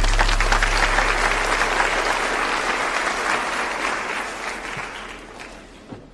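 Audience applauding, a dense clapping that starts suddenly and dies away gradually over several seconds.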